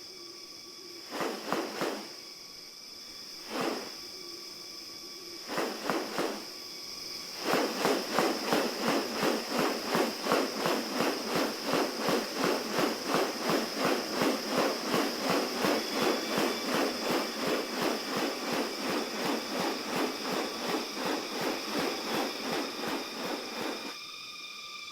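Tropical rainforest sound: a steady high-pitched insect drone, with a few short rasping calls in the first seconds, then a long run of rasping pulses at about three a second that slowly fades.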